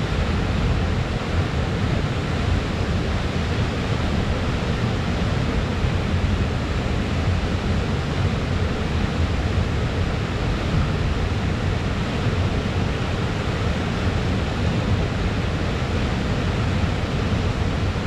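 Waterfall: water falling and crashing into a pool, a steady full-bodied rush, heaviest in the low end.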